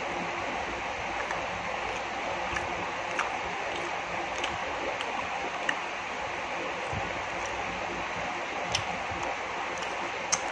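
A person chewing chicken momos, making small mouth clicks and smacks at irregular gaps of about a second, over a steady background hiss.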